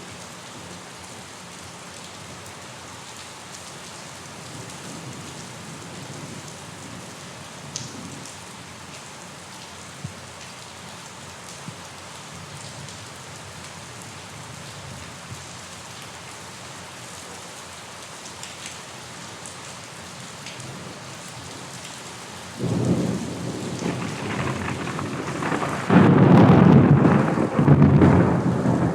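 Steady rainfall with an occasional drop tapping close by. About three-quarters of the way through, a loud low rumble of thunder breaks in and swells, growing louder toward the end.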